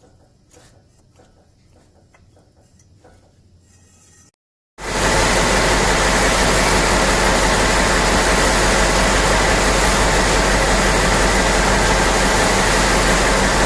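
Large mining haul truck running close by: a loud, even noise with a steady low hum underneath, which cuts in abruptly about five seconds in after a brief dropout. Before it there is only a faint low background with a few small clicks.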